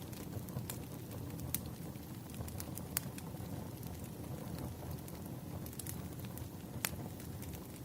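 Wood fire in a fireplace crackling: a steady low rumble with scattered sharp pops, the clearest about a second and a half in, at three seconds and near the end.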